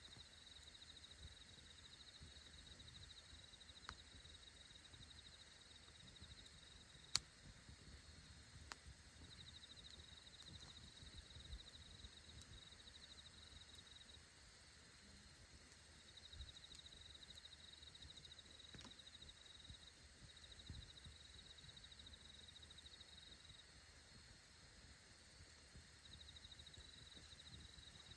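Faint campfire crackling, with a few sharp pops, the loudest about seven seconds in, over insects chirring in long trains of rapid, high-pitched pulses.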